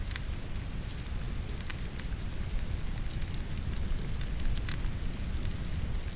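Wood logs burning in a fireplace, with scattered sharp crackles and pops at irregular moments, over a steady rush of falling rain.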